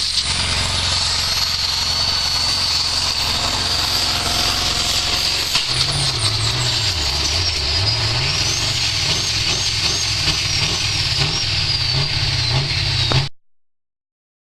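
Pulling truck's diesel engine running hard under load as it drags the weight sled, with a steady high whine over it. A little over a third of the way in, the engine note changes and then rises and falls. The sound cuts off abruptly near the end.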